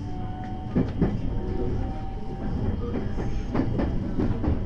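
JR West 223 series electric train running over pointwork, heard from inside the leading car: a steady low rumble with irregular wheel knocks and clatter as the wheels cross switches and rail joints, and a faint steady whine.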